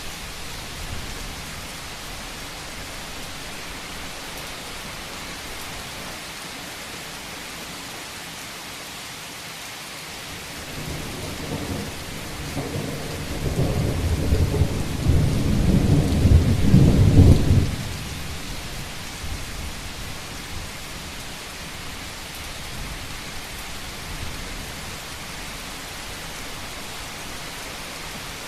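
Steady rain drumming on a roof, an even hiss throughout. About ten seconds in, a low rumble of thunder swells over several seconds, grows loudest, then breaks off fairly suddenly.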